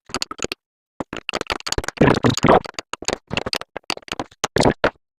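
A 1-inch wrench working on the nut of the external oil filter canister: a run of irregular metal clicks, knocks and scrapes, thickest about two seconds in, stopping just before the end.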